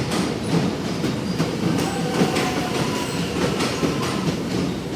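Electric suburban train rolling slowly past the platform, its wheels clicking over rail joints and points with a steady rumble, and a faint wheel squeal about halfway through.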